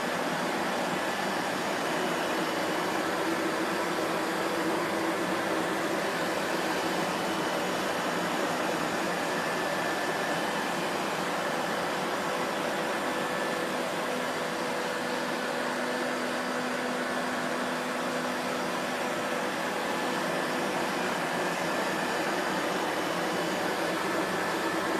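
Vacuum cleaner motor running steadily, a constant whooshing hum with a faint whine, no change in speed.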